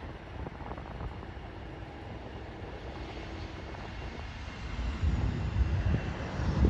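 Airliner engines running at a distance, a steady rumble with a faint high whine. Wind buffets the microphone, growing louder about five seconds in.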